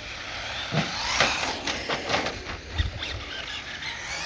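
Brushless two-wheel-drive RC short-course trucks (Traxxas Slash) racing on pavement: electric motor whine rising with the throttle about a second in, tyres squealing on the asphalt, with scattered clicks and knocks.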